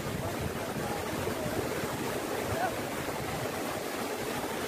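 Steady rush of flowing water from a stream or waterfall.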